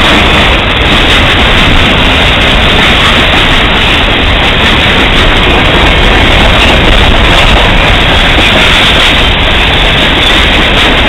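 Freight train cars, boxcars and covered hoppers, rolling past close by: a loud, steady rumble of steel wheels on the rails.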